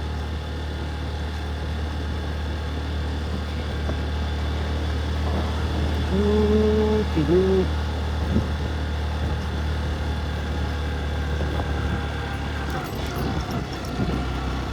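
Motorcycle engine running steadily while climbing uphill in low gear, with a steady low drone that dips briefly near the end. A short hum of a voice comes in about halfway through.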